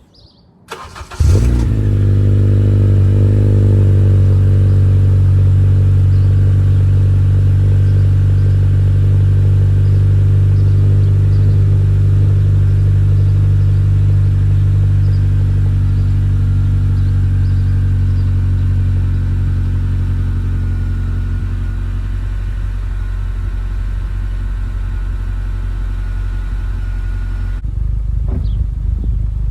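2013 Honda Civic Si's 2.4-litre four-cylinder engine with a Flowmaster FlowFX axle-back muffler, starting about a second in and then idling steadily through the exhaust.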